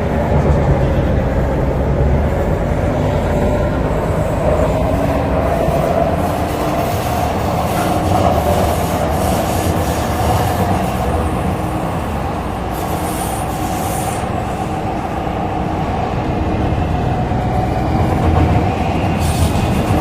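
MTR C-Train metro running at speed between stations, heard from inside the car: a steady rail rumble with a continuous high-pitched whine over it.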